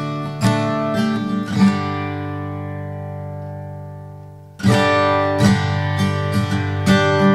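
Background acoustic guitar music: plucked notes, then a chord that rings out and fades for about three seconds before the picking starts again.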